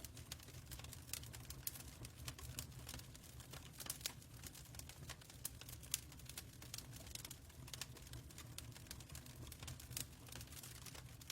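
Wood fire crackling: small irregular pops and snaps over a low steady rumble.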